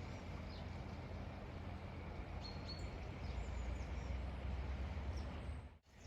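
Outdoor ambience: a few brief, high bird chirps over a steady low rumble and faint background noise.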